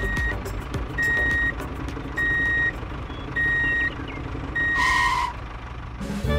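Reversing alarm beeping, five even beeps about a second apart, over a low engine rumble, as the tractor backs up to hitch the trailer. A brief hiss sounds about five seconds in.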